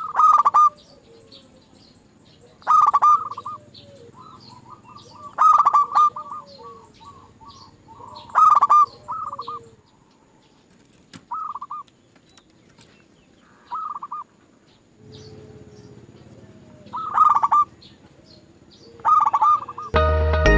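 Zebra dove (perkutut) cooing: a short rolling coo phrase repeated about eight times, two to three seconds apart, some fainter than others. Faint chirps of small birds are behind it, and music starts just at the end.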